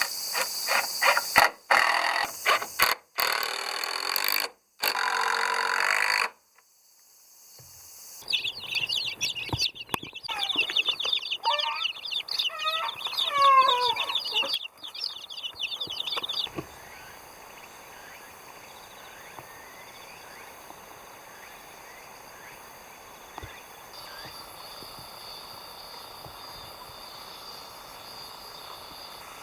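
A power tool working wood in short runs for about six seconds, then a sudden cut. From about eight seconds in, chickens cluck and call over dense high chirping for some eight seconds. After that comes a quiet outdoor background with faint bird chirps.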